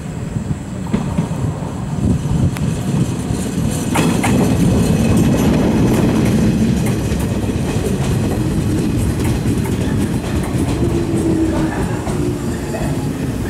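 Shinano Railway 115-series electric train pulling into the station and passing close by, its wheels rumbling and clacking over rail joints as it slows. It gets louder about four seconds in as the cars pass near, and a short squeal comes near the end.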